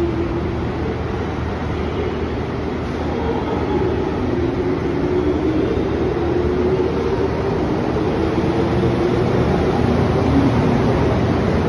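Train moving at a station platform: steady running noise growing slightly louder, with a faint wavering tone over it.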